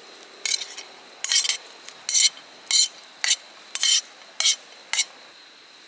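A series of about eight short scraping or rasping strokes, roughly two a second, over a faint steady high whine.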